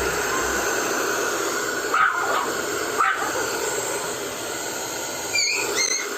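Pomeranian puppy whimpering, with brief whines about two and three seconds in and a couple of high-pitched squeals near the end, over a steady hiss.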